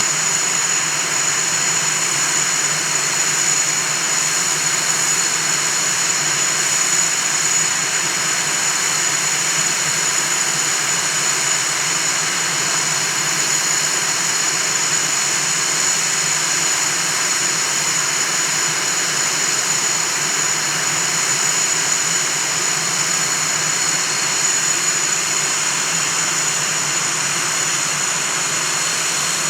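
Northrop F-5E Tiger II's twin General Electric J85 turbojets running at a steady setting, a constant rush with a high steady whine over it.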